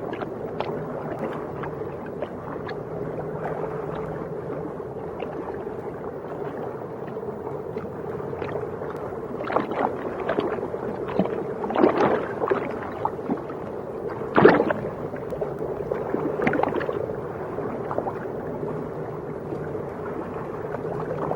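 Underwater ambience: a steady low hum with scattered bubbling gurgles, the loudest about twelve and fourteen seconds in.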